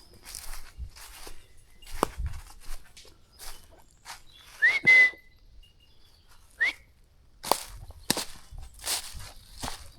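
Footsteps on a country path, irregular crisp steps, with two short upward whistles about halfway through; the first is the loudest sound and holds its pitch briefly at the top.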